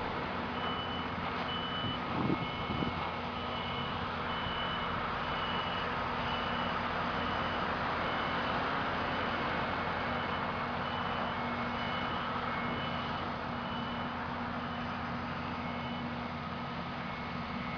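A heavy vehicle's reversing alarm beeping about once a second over its steady running engine. Two knocks sound about two seconds in.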